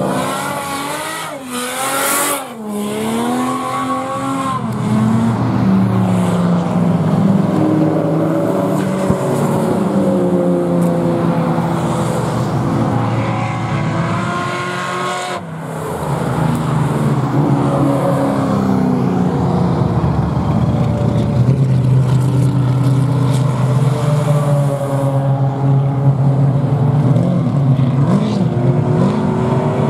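Several car engines running and revving along a race-track straight, their pitch rising and falling as they accelerate and change gear. There is a brief drop about halfway through.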